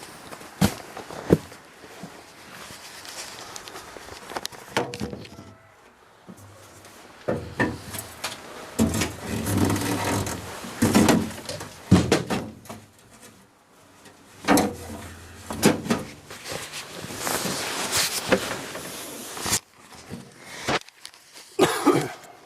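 Irregular knocks, clunks and rustling of things being handled, in uneven bursts with short quiet gaps.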